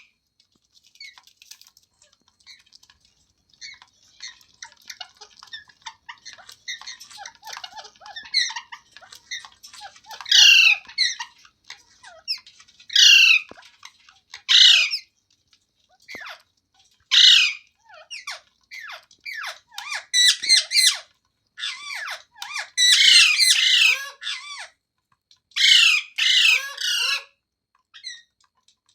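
Rose-ringed parakeet (Indian ringneck parrot) calling: soft chattering chirps at first, then loud, harsh squawks repeated every couple of seconds, coming closer together near the end.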